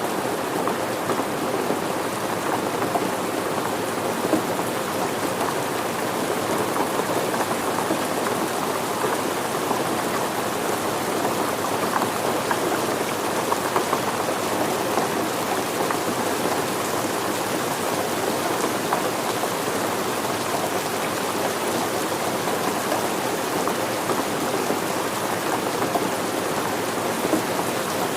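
Steady rain falling, a dense even patter of drops on surfaces that holds constant throughout.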